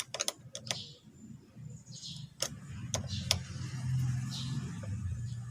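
Scattered sharp metallic clicks and knocks of hand work on the starter, with a low rumble that grows from about two seconds in and becomes the loudest sound.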